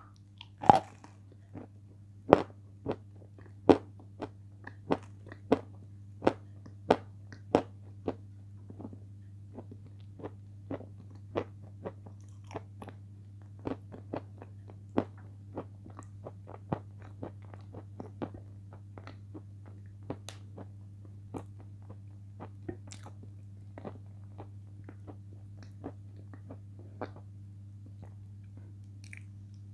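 Close-up eating: biting into and chewing a crunchy chip coated in thick cream, a crisp crunch with each chew, about one or two a second, loudest over the first eight seconds and softer after that. A steady low hum runs underneath.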